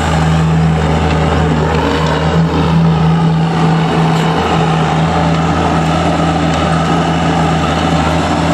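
A heavy engine running steadily at a constant speed throughout.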